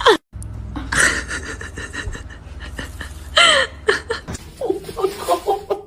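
A cat meows once, a single arching call, about three and a half seconds in. A quick run of short pitched sounds follows near the end.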